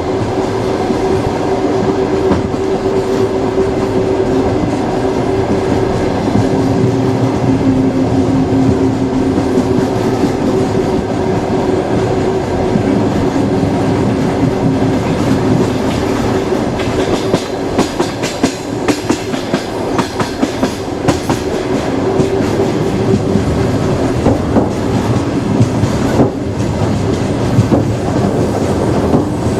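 Train running on the rails: a steady rumble with a low humming tone. From a little past halfway, wheels clack sharply and irregularly over the rail joints.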